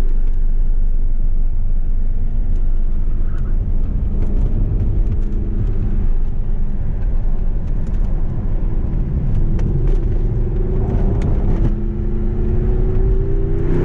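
Audi R8's V10 engine heard from inside the cabin over a heavy low road rumble, holding a steady note, easing off about five seconds in, then pulling again with a steadily rising pitch through the second half.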